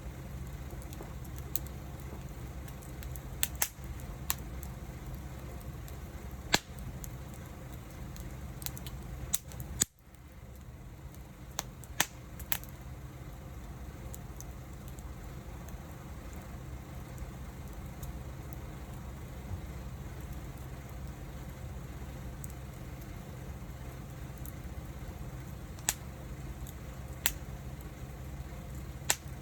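Wood fire burning with a steady low rush of flame and sharp, scattered crackles and pops from the burning wood, clustered in the first half and again near the end.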